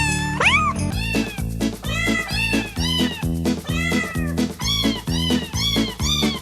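Cat meows sampled and tuned to notes, one meow per note, playing a Christmas tune at about two meows a second over a synthesized backing track with bass.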